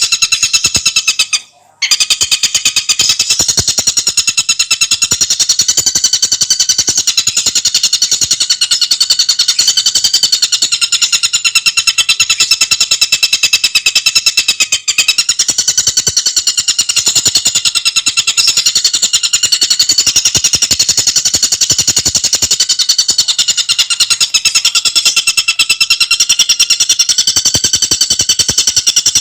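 Tengkek buto bird calling in a continuous, very fast, high-pitched trill of rapid repeated notes, with a short break about one and a half seconds in.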